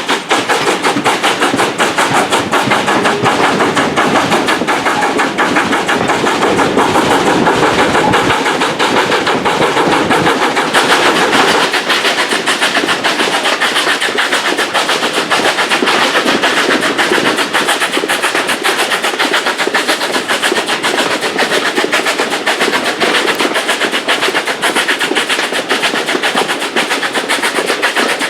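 A train running, with a fast, even clatter of sharp repeated beats that carries on without a break.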